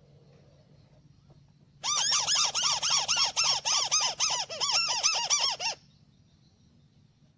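White-browed crake calling: a loud, rapid series of squealing arched notes, about four or five a second, starting about two seconds in and stopping abruptly after about four seconds.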